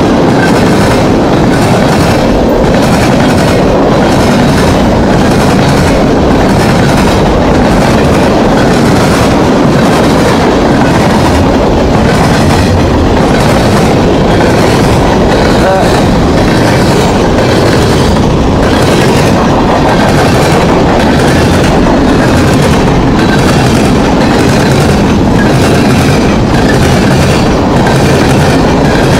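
A train's cars rolling steadily past, close and loud, with a repeated clatter of wheels over the rail diamond crossing and joints.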